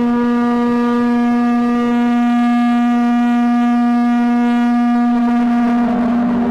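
A loud, steady horn-like tone held on one unchanging note, rich in overtones. Near the end a rushing noise rises underneath it.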